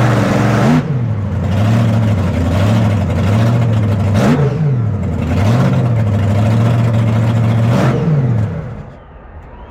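Monster truck engine revving hard again and again, its pitch climbing and falling in repeated sweeps, with three sharp peaks. The engine drops away near the end.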